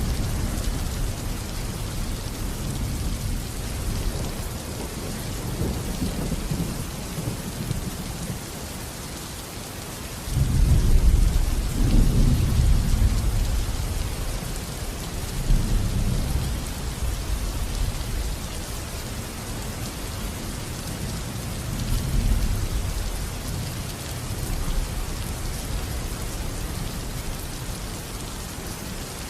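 Thunderstorm: steady rain hiss with low rolling thunder, a loud rumble breaking in about ten seconds in and rolling on for several seconds, with smaller swells later.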